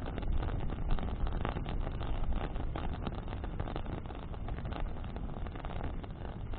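Bonfire burning in the wind, the fire crackling with many small pops over a steady low rumble of wind buffeting the microphone.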